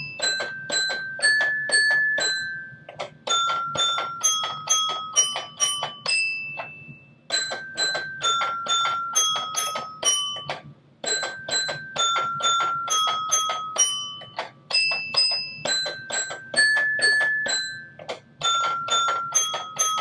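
Children's toy xylophone struck note by note, playing a simple nursery tune in short repeated phrases with brief pauses between them; the notes are bright and bell-like and ring briefly.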